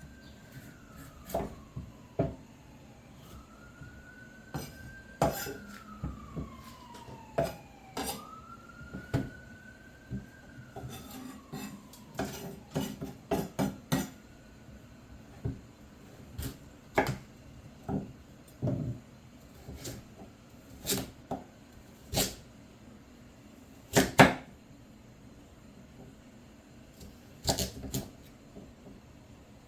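Irregular sharp knocks and clatter of kitchen work. Through the first ten seconds or so a faint siren wails in slow rising-and-falling sweeps, three of them, with a weaker fourth a little later.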